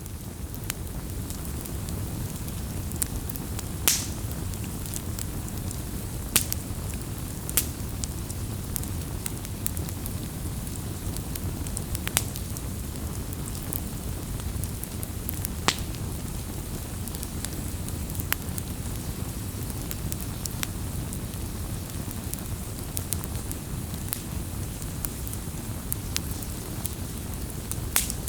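Wood campfire burning, a steady low rumble of flame with sharp crackles and pops from the burning wood every few seconds.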